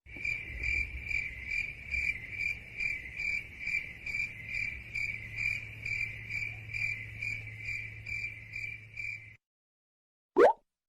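Crickets chirping in a steady pulsing rhythm, about two to three chirps a second, that cuts off suddenly about nine seconds in. A short rising swish follows near the end.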